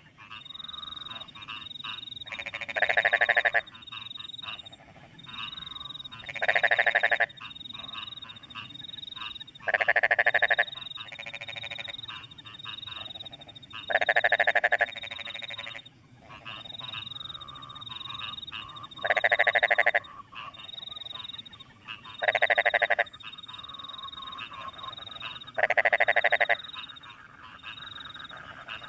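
Rice-paddy frogs calling: a loud, rapidly pulsed croak about a second long comes every three to four seconds, seven times. Between them, crickets keep up a short, high chirp that repeats over and over, with a fainter lower trill in the background.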